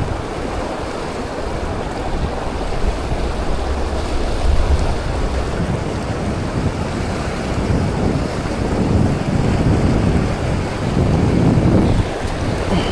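Strong wind buffeting the microphone in gusts over a steady rushing noise, with heavier low rumbling surges several times.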